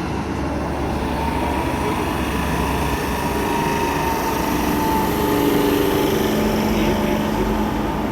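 Class 319 electric multiple unit pulling away from a station platform: a steady rumble with its traction motors whining.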